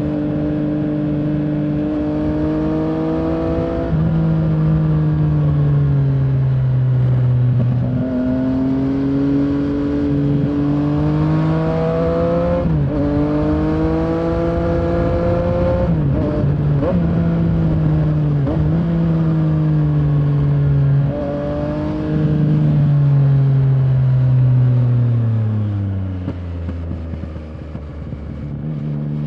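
Yamaha Tracer 900's three-cylinder engine running under way, its note climbing as it pulls and stepping down at each gear change. Near the end the note sinks steadily as the bike slows.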